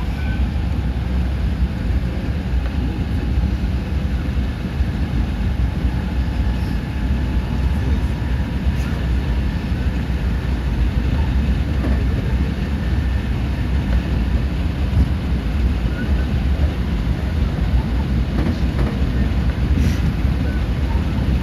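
Cabin running noise of a JR West 223 series 2000 electric train at speed: a steady low rumble of wheels on rail, with a few faint clicks.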